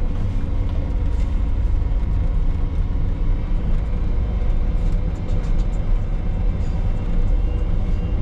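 Heavy machinery engine running steadily, a continuous deep drone.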